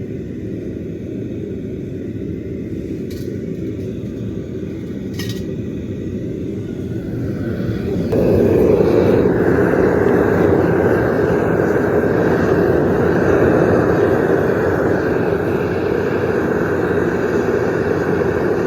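Gas burner of a copper-melting furnace running with a steady roar, turned up about eight seconds in to a louder, brighter roar.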